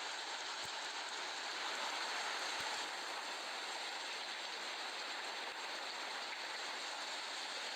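Heavy rain during a drive: a steady hiss of rain falling on the car and wet road, with a couple of faint ticks in the first few seconds.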